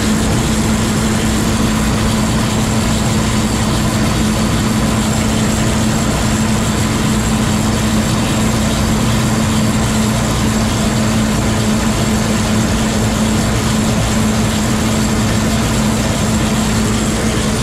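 Combine harvester running steadily under load while harvesting corn: a loud, even machine drone with a constant low hum and a faint high whine.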